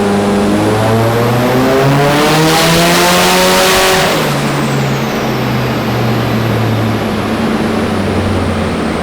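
Nissan S15's turbocharged SR20DET four-cylinder making a full-throttle pull on a chassis dyno: the revs climb steeply for about three seconds, then the throttle shuts about four seconds in and the engine drops back to a lower, steady note while a high whistle falls away.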